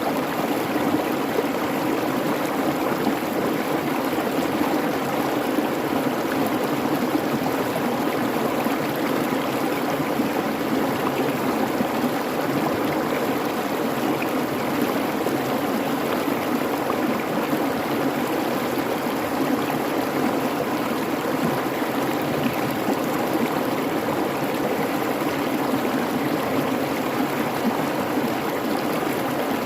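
A babbling creek: water running steadily over rocks in an even, unbroken rush.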